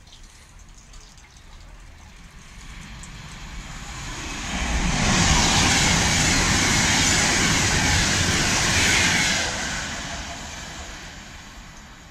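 Class 390 Pendolino electric train passing through at speed: a rushing rumble that builds from about four seconds in, stays loud for about four seconds, then fades away.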